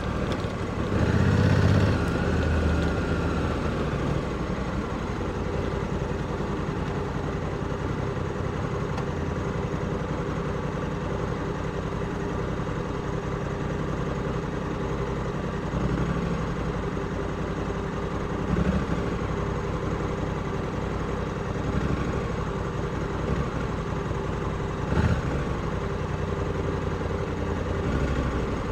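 Honda Africa Twin 1100's parallel-twin engine running steadily at low revs, with a few brief swells in loudness along the way.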